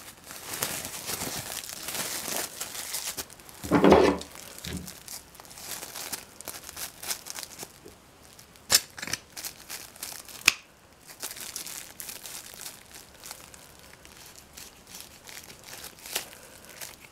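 Crinkling, rustling handling noise, with a short loud creak about four seconds in and two sharp clicks later on.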